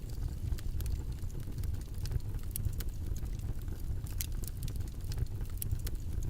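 Steady low rumbling background noise with scattered sharp crackles and clicks several times a second.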